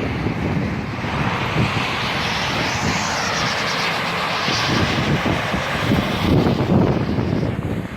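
Strong gusty wind buffeting the microphone, with a broad rushing hiss that swells in the middle and fades near the end.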